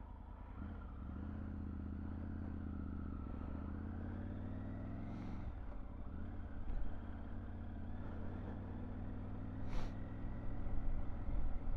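Triumph Tiger 900 GT Pro's three-cylinder engine running under way, its pitch climbing steadily for several seconds, dropping sharply about five and a half seconds in, then climbing again.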